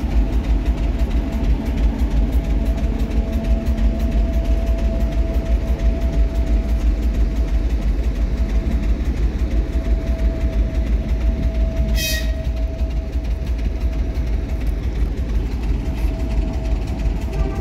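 Railway train sounds: a heavy, steady low rumble with a thin steady whine over it, and one short sharp click with a brief ring about twelve seconds in.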